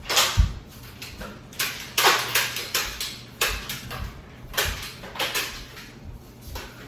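Metal utensils clinking and scraping against a cooking pot and dishes in irregular knocks and scrapes.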